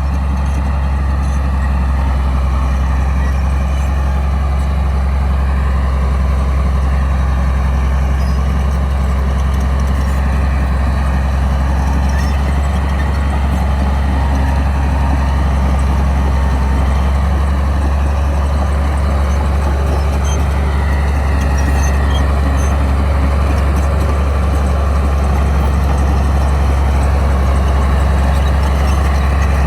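Bulldozer's diesel engine running steadily with a low drone.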